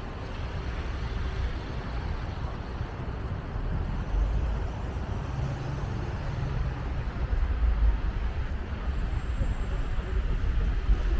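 City street traffic noise of passing cars, with a low rumble that grows louder from about four seconds in.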